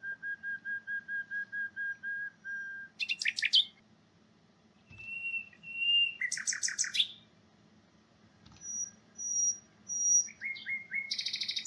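Common nightingale whistle songs: about a dozen short whistles on one steady pitch, then a quick trill of sweeping notes. Next come two longer whistles at a higher pitch and another trill, then whistles higher still, a few short falling notes and a buzzy rattle at the end. The same song type is sung at three different pitches.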